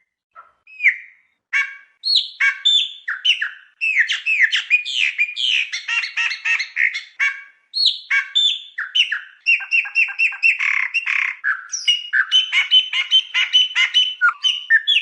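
A songbird singing a long, fast, varied song of chirps, whistled sweeps and trills. It opens with a few separate notes, then runs almost without a break from about two seconds in.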